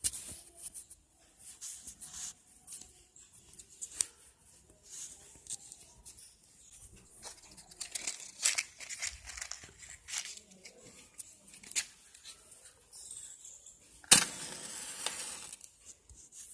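Thin disposable plastic cup crinkling and clicking in irregular bursts as it is handled. A sharp knock about fourteen seconds in, the loudest sound, is followed by a brief hiss.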